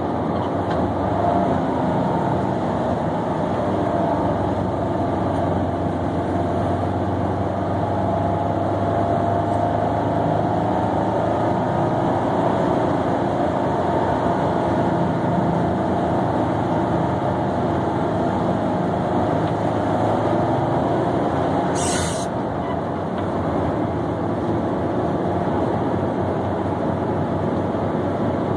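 1963 Chevrolet Corvair's air-cooled rear flat-six running steadily under way, with road noise, heard from inside the cabin. A single sharp click comes about three quarters of the way through, followed by a brief dip in the engine's level.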